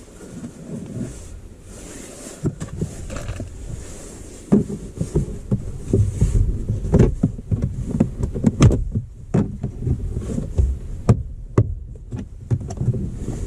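Irregular knocks, clicks and low rumbling handling noise as a wire is worked up behind plastic car interior trim, busier from about a third of the way in.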